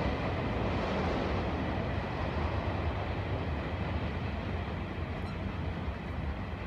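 Chu-Kuang Express train running on the rails: a steady low rumble that slowly fades.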